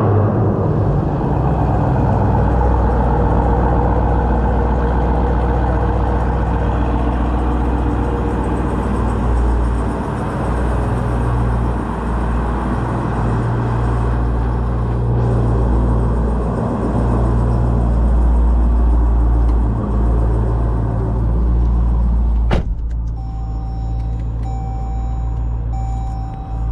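Jeep Trackhawk's supercharged V8 running steadily as a low drone with small rises and falls. About 22 seconds in, a sharp click comes and the engine goes quieter, and a vehicle chime starts beeping about once a second.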